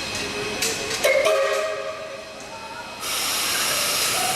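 Steam hissing from the Queensland Railways BB18¼ class steam locomotive 1079, with a few metallic knocks about a second in. About three seconds in, a loud rush of steam starts suddenly and keeps blowing.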